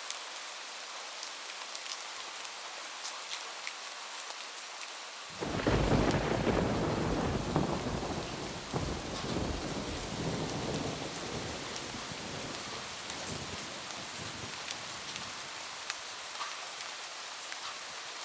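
Steady rain falling on a roof, with scattered drop ticks. About five seconds in, a thunderclap breaks in suddenly and rolls on as a deep rumble that slowly fades over about ten seconds, leaving the rain.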